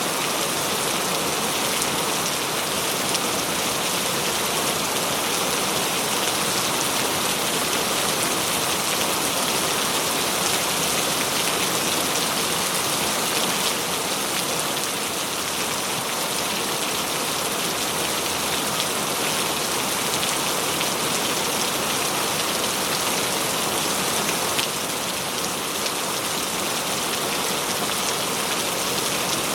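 Heavy, steady rain falling and pattering on surfaces, a dense even hiss of countless drops.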